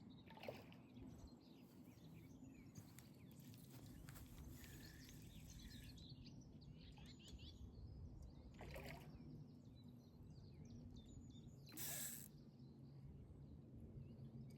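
Faint outdoor ambience: a steady low background rumble with scattered short bird calls.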